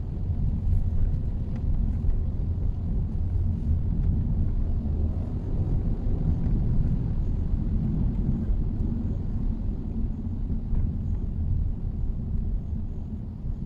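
Mitsubishi Xpander on the move: a steady low rumble of road and engine noise.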